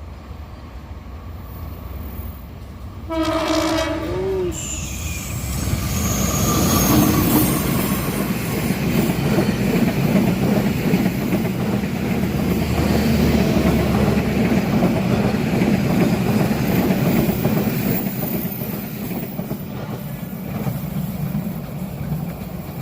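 Locomotive horn of the KA Joglosemarkerto train: one short, wheezy ("bengek") blast about three seconds in that wavers in pitch at its end. Then the train passes close by, its wheels rumbling and clacking on the rails for about fifteen seconds, easing off near the end.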